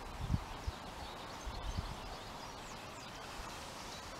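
Small birds chirping over a steady outdoor background hiss, with a few low thumps in the first two seconds.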